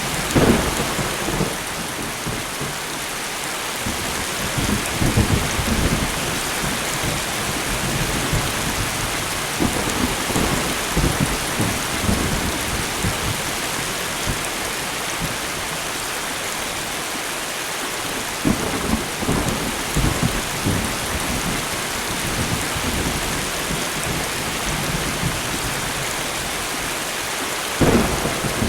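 Steady light rain pattering, with thunder rumbling repeatedly and a sharp crack about half a second in and another near the end.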